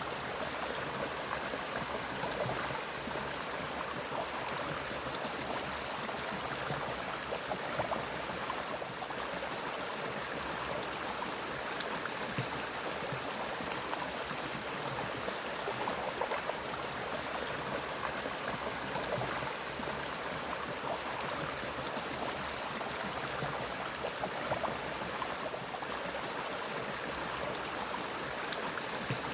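Mountain stream flowing steadily over rocks, with an even rushing and gurgling and a steady high-pitched tone over it.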